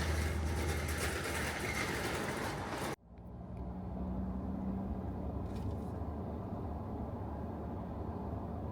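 Background music cuts off abruptly about three seconds in, giving way to a steady low rumble of outdoor background noise.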